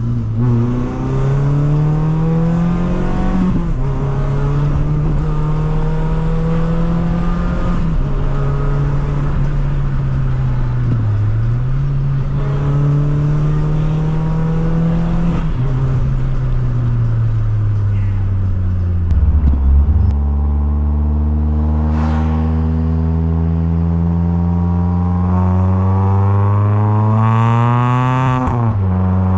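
Citroën C2 VTS's 1.6-litre 16-valve four-cylinder petrol engine pulling through the gears: the engine note climbs in pitch and falls back at each gear change, several times in the first half. It then holds a lower note that climbs slowly for several seconds before dropping again near the end.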